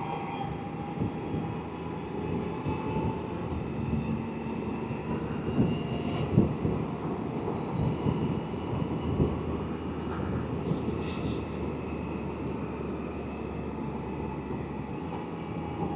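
Can-Am Spyder three-wheeler cruising on a back road: a steady engine drone under wind and road noise, with a few brief knocks along the way.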